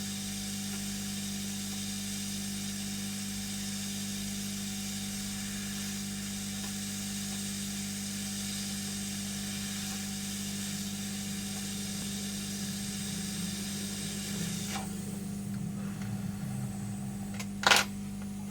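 Hot air rework station blowing a steady hiss over a low hum, cut off abruptly about fifteen seconds in, leaving the hum. A single short, loud sharp sound near the end.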